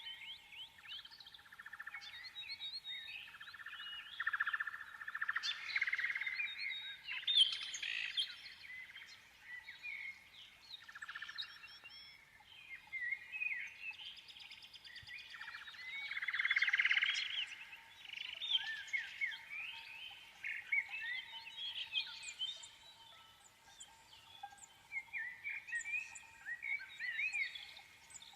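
Many small birds chirping and twittering continuously in quick, overlapping calls, with a faint steady hum beneath.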